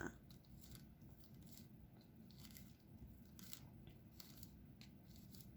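Faint, scattered light clicks of a diamond painting pen picking up and pressing small resin drills onto the sticky canvas, over near silence.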